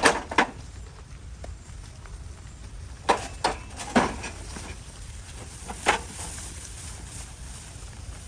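A few sharp knocks at irregular intervals: one right at the start, three in about a second around three to four seconds in, and one more near six seconds, over a steady low background hum.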